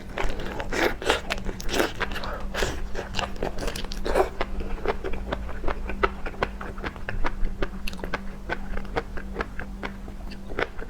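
Close-miked mouth sounds of someone eating seafood: wet chewing with crisp crunches and clicks. The bites are heavy for the first few seconds, then give way to a quicker run of lighter clicking chews.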